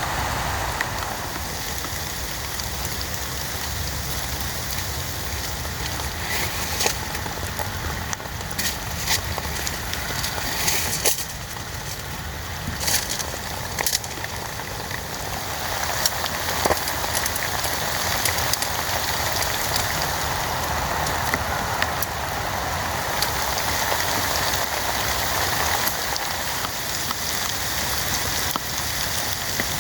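Heavy rain falling steadily, with scattered sharper drop hits standing out through the middle stretch.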